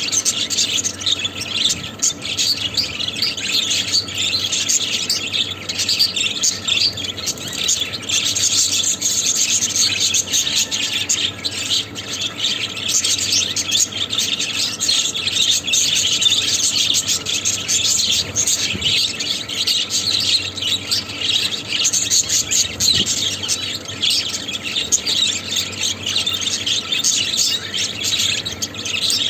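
Budgerigars chattering: a steady, dense stream of rapid high chirps and warbles with no pause.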